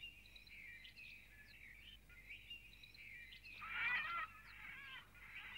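Small birds chirping, with a louder burst of warbling chirps about three and a half seconds in.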